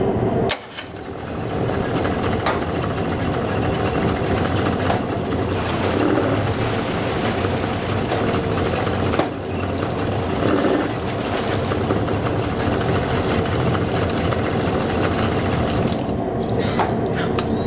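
Tohatsu M70C two-stroke outboard motor running steadily. It drops off briefly about half a second in and builds back up, with a sharp click about nine seconds in.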